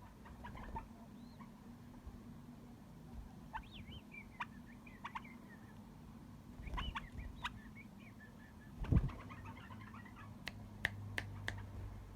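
Pet canary chirping and twittering in short, high phrases. There is a dull thump partway through and a few sharp clicks near the end.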